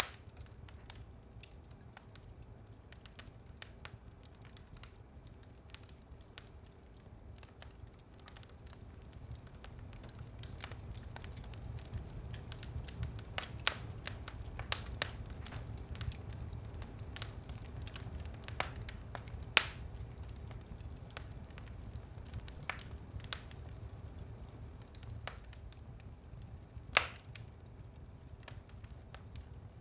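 Wood fire burning in a fireplace: a low rumble under irregular crackles and sharp pops, the crackling growing busier in the middle, with a few louder snaps from the burning logs.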